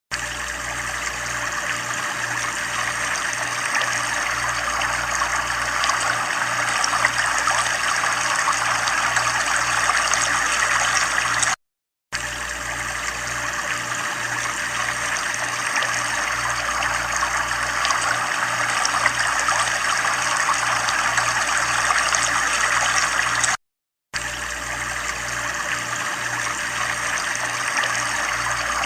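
Steady running water, a continuous trickling sound, broken twice by a brief drop to silence about twelve and about twenty-four seconds in.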